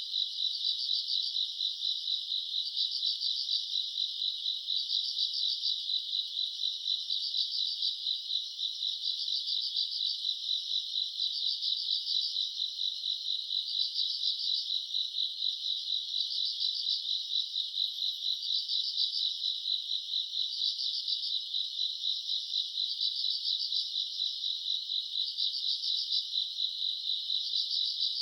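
A chorus of grass insects calling at night, a continuous high-pitched trill. One layer of it swells and fades about every two seconds.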